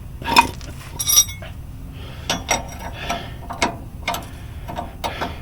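Ratchet wrench clicking in short, irregular strokes with light metal clinks as a castle nut is run down.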